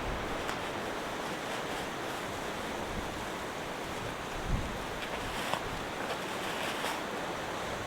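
Strong wind blowing steadily, with a few faint brief knocks.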